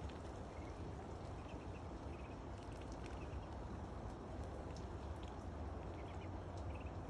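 Steady rain pattering, with ducklings giving a few faint short peeps now and then.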